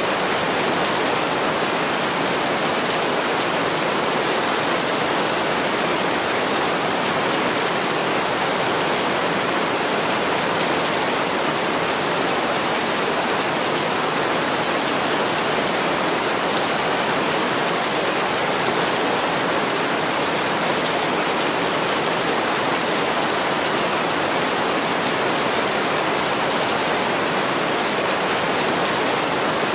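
Heavy rain falling in a dense, steady hiss that doesn't change.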